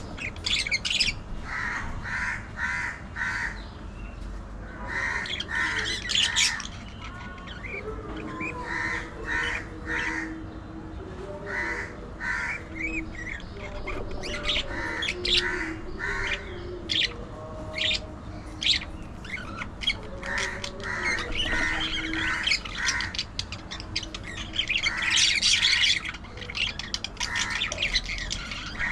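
Pet budgerigars chattering, with short chirping calls in quick runs that go on throughout.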